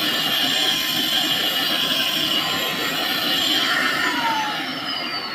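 Small Lotus vacuum cleaner running with a steady rush of air and a high motor whine. About four seconds in it is switched off and the whine falls in pitch as the motor spins down.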